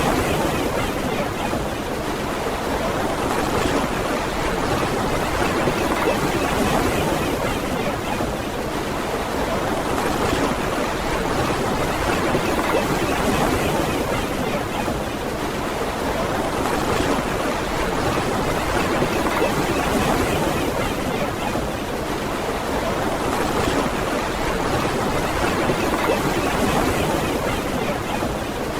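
Ocean surf washing onto a beach in a steady rush, swelling slightly about every three to four seconds.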